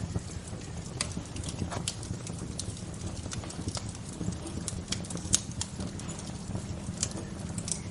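Wood fire crackling: sharp irregular pops and snaps, the loudest a little past halfway, over a steady low rumble.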